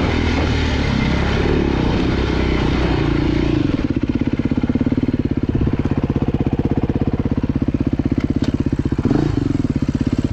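Off-road motorcycle engine running, its revs rising and falling for the first few seconds, then settling into a steady, even pulsing at low revs. It gives one brief rev near the end, then the sound cuts off suddenly.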